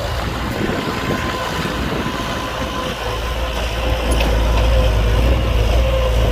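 Heavy construction machinery's diesel engine running with a steady whine over a low rumble; the rumble grows louder about two-thirds of the way through, as if the machine is working harder or coming closer.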